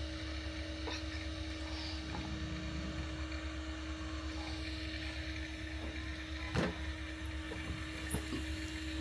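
A motor vehicle's engine running steadily as a low pulsing rumble with a constant hum, and a single sharp knock about six and a half seconds in.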